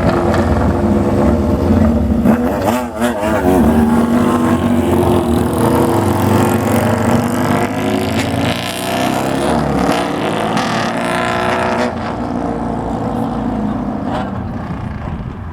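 Several classic Japanese motorcycles with loud aftermarket exhausts riding off one after another. One revs about three seconds in, and another pulls away with rising pitch about eight to eleven seconds in.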